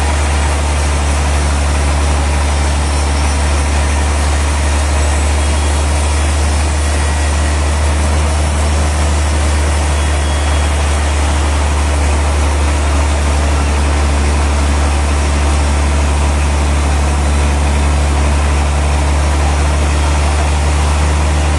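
Sawmill machinery running steadily: a loud, constant drone with a deep hum under an even hiss, unchanging throughout.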